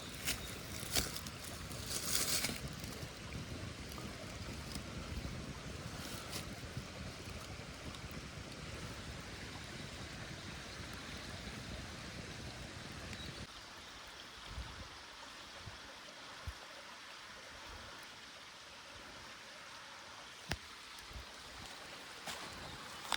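Steady rush of a small stream, with a few clicks and a brief rustle in the first couple of seconds; a low rumble under it drops away about halfway through.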